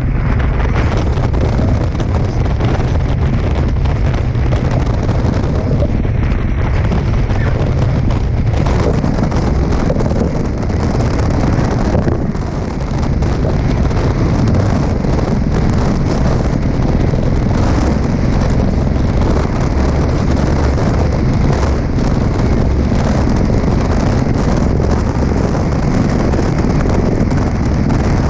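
Heavy wind noise buffeting the microphone in very strong wind, over the rush of water past a Tornado catamaran sailing fast.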